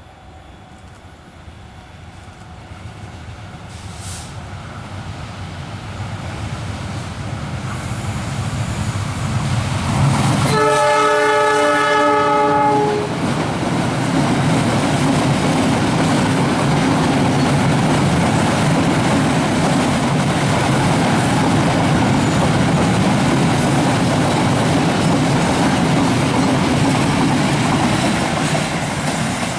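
Train approaching and growing steadily louder for about ten seconds, then sounding its horn in one long blast of about two and a half seconds. The steady rumble and clatter of its wheels on the rails follows as the train passes close by.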